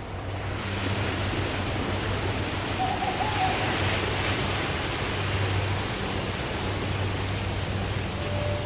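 Waterfall rushing steadily: an even, continuous hiss of falling water with a low rumble beneath it.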